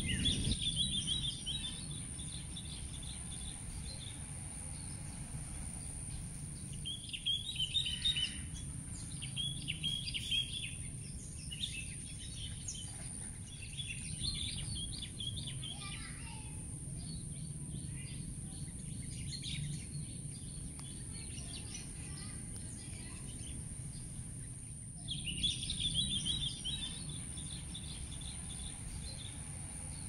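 Small birds chirping and twittering in short rapid bouts, about five times. Under them runs a steady high-pitched whine and a low outdoor background rumble.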